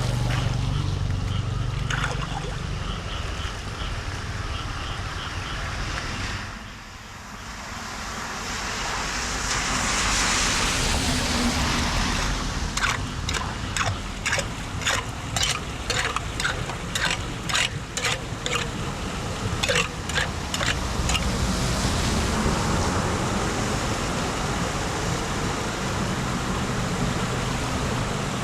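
Floodwater running steadily, with a run of short sharp knocks, about two a second, in the middle.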